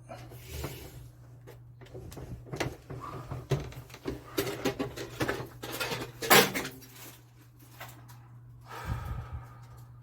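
Irregular knocks, clicks and scraping of objects being handled, over a steady low hum, with one sharp loud knock about six seconds in.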